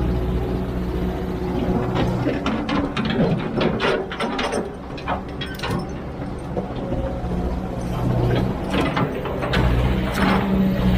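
Hydraulic excavator's diesel engine running steadily, with a series of sharp clanks and knocks through the middle, after which the engine hum comes back up near the end.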